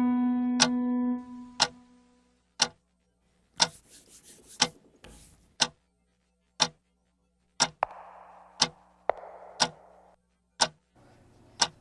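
Clock ticking steadily, one sharp tick a second, as a dubbed foley effect. A sustained pitched note fades out over the first two seconds, and a hiss swells and dies away between about eight and ten seconds in.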